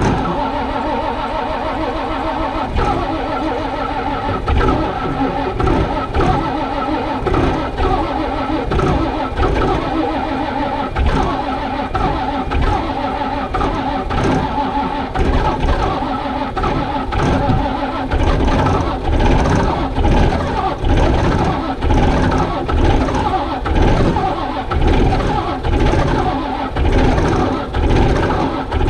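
A log loader's engine being cranked over by its starter in freezing cold, turning with a slow, uneven beat as it tries to fire.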